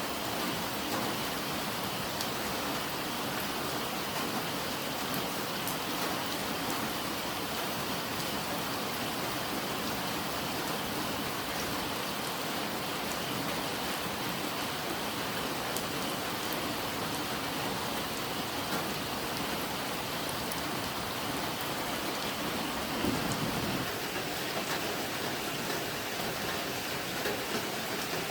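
Steady rain falling, with scattered ticks of single drops. About three-quarters of the way through, a short low rumble swells and fades within a second or so.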